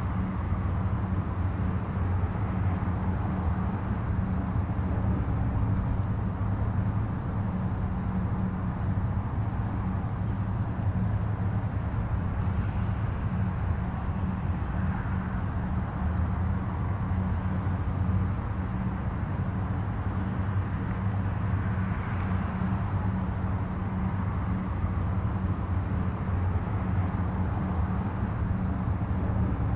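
Distant highway traffic: a steady low rumble of tyres and engines, with a faint hiss above it and passing vehicles swelling gently now and then.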